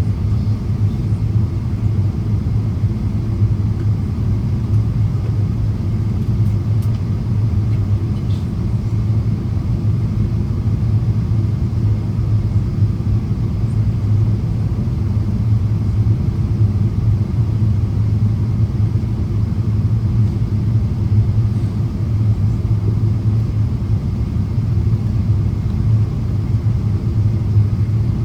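Steady cabin drone of a Boeing 777-200ER in flight, its Rolls-Royce Trent 892 engines and the airflow heard from a window seat as an even, low rumble.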